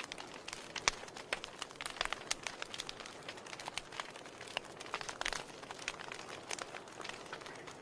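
Wood fire crackling in a fireplace: irregular sharp pops and snaps over a steady hiss, with a few louder pops.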